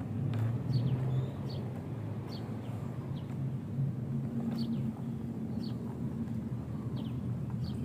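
Small birds chirping, short high calls repeating every half second to a second, over a steady low hum.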